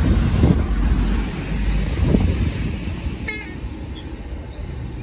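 Heavy truck engine rumbling low, loudest in the first two seconds and then easing off. A brief high-pitched squeak sounds about three seconds in.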